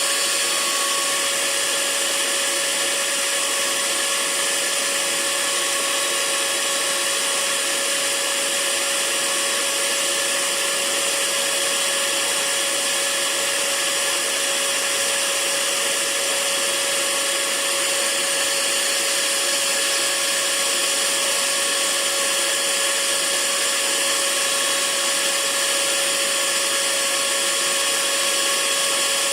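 Hair dryer running steadily: an even rush of air over a constant motor hum.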